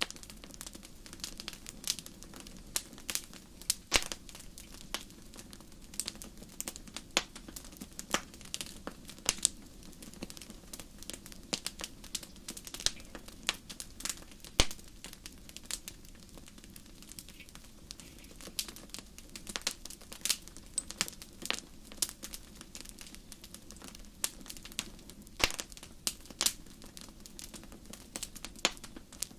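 Wood fire in a fireplace crackling: frequent sharp irregular pops and snaps over a low steady rumble of the flames.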